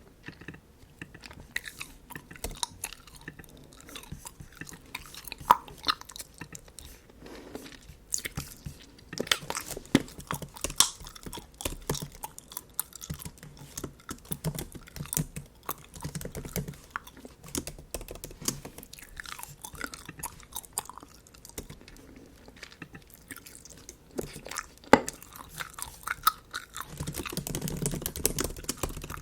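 Bubble gum chewed close to the microphone: wet, irregular smacks and clicks that come steadily, a little fuller near the end.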